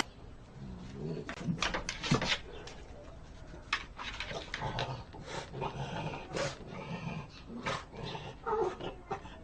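A dog making brief whining sounds, with scattered short knocks and clicks.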